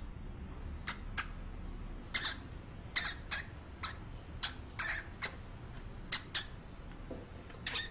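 White dwarf hamster making a string of short, sharp, high-pitched squeaks, irregularly spaced at about two a second.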